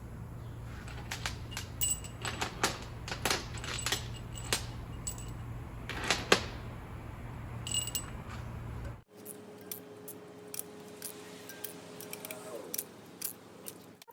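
Hand tools and metal engine parts clinking and clicking in irregular strokes during reassembly of a V8 engine, over a steady low hum that cuts off abruptly about nine seconds in.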